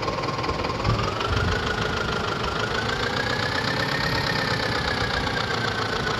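Massey Ferguson 241 tractor's three-cylinder diesel engine running steadily under way, its pitch rising from about a second in and easing off slightly in the second half.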